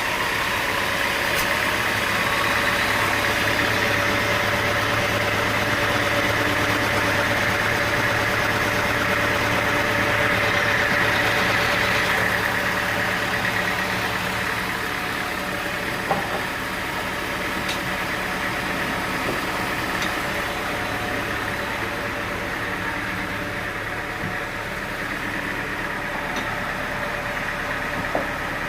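Sawmill machinery running steadily with a hum and a high hiss, easing slightly about twelve seconds in. Two brief knocks come later.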